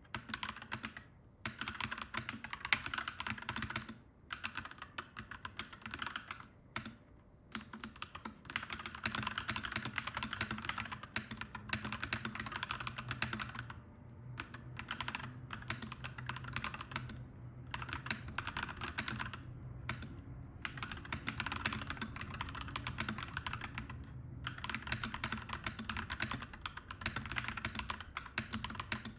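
Fast, continuous typing on a clacky mechanical keyboard, a dense run of key clacks broken by brief pauses every few seconds. A faint low hum sits underneath through the middle stretch.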